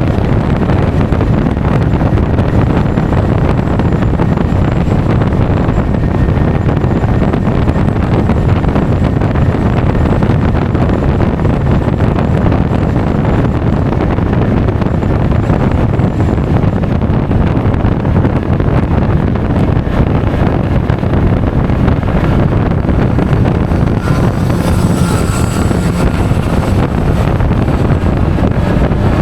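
Steady wind noise buffeting the microphone of an action camera on a moving Honda Forza 350 scooter, mixed with road and riding noise. About 24 seconds in, a higher-pitched sound briefly joins it.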